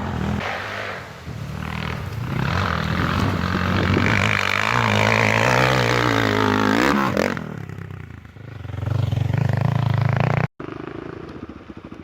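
Enduro motorcycle engine revving and running under load, the pitch climbing and falling, easing off about eight seconds in and picking up again. The sound breaks off sharply near the end and resumes as a quieter engine note.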